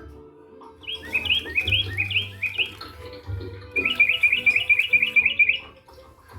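Small birds chirping: a series of short rising chirps, then a louder, quicker run of rapidly repeated chirps that stops about a second before the end.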